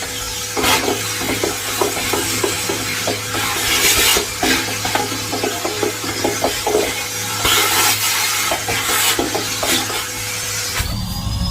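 Henry vacuum cleaner running with a steady hum, with repeated rubbing and scraping strokes over it.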